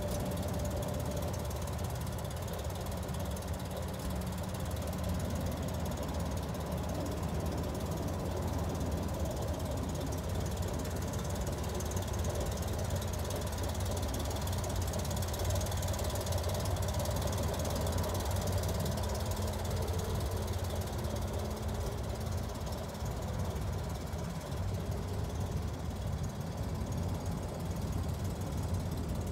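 Air-cooled flat-six engine of a 1962 Chevrolet Corvair van running steadily at an even, low engine note.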